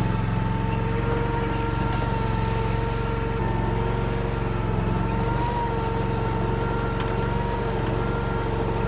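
Honda gas engine of a Derette DRT450 mini skid steer running steadily at raised RPM while the machine drives along, with a steady whine over the engine note.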